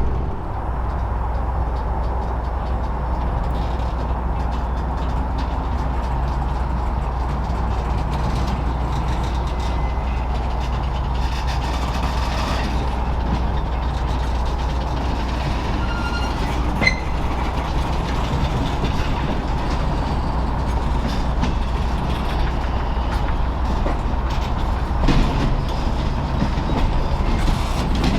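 Norfolk Southern Triple Crown RoadRailer train rolling past, a steady rumble of trailers on rail bogies over the rails. About halfway through come a few brief high squeals and a sharp click.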